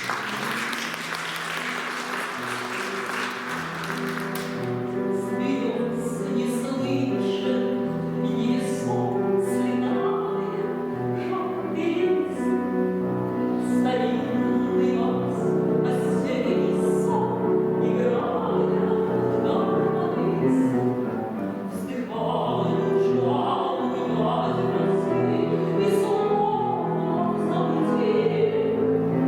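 Brief applause for the first few seconds, then a grand piano and a woman's trained classical voice performing a slow song.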